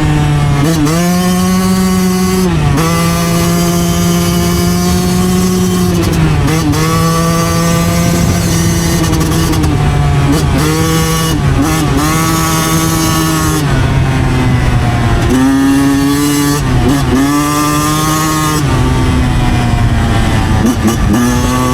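2009 Yamaha YZ125 two-stroke single-cylinder dirt bike engine revving hard under way. The revs drop for a moment and climb straight back again about a dozen times.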